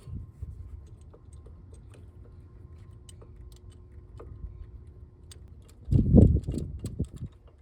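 Light clicks and rattles of a coil-on-plug ignition coil being worked down into its spark plug well, with a louder flurry of knocks and rubbing about six seconds in.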